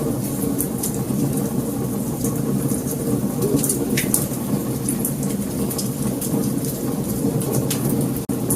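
Wood fire burning: a steady low rumble with frequent sharp crackles and pops, and a momentary dropout near the end.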